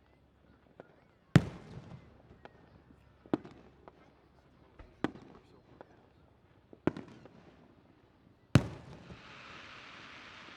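Fireworks shells bursting: five loud booms spaced about every second and a half to two seconds, each trailing off, with smaller pops between them. After the last boom a steady hissing crackle sets in.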